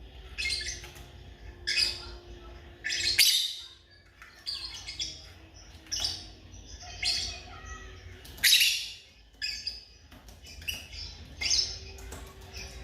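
African lovebirds calling in short, high-pitched chirps, about one call a second, the loudest about three seconds in and again past the middle.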